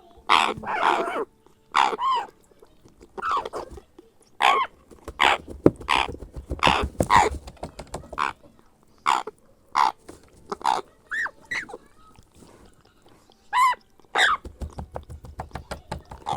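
Grey parrot hatchling giving short, repeated food-begging calls, one every half second to a second, with faint clicks between them.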